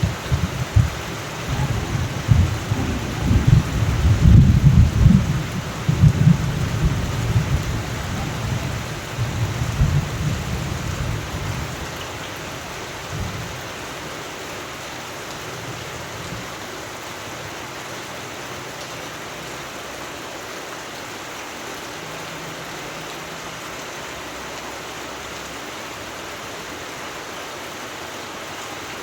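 Steady rain with a long roll of low thunder that rumbles through the first dozen seconds and dies away, leaving only the rain.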